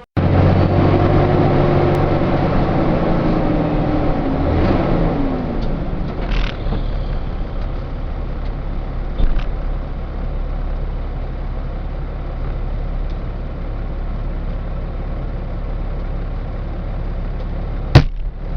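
Vehicle engine and road noise heard from inside a truck cab, with an engine tone falling over the first five seconds or so, then steady running. A single sharp click near the end.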